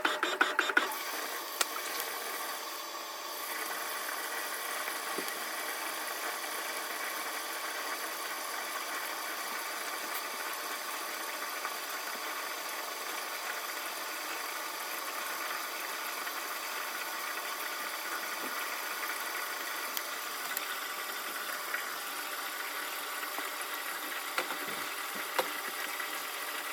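Washing machine running during a wash cycle. A fast rhythmic churning stops about a second in and gives way to a steady mechanical hum, with a few scattered clicks.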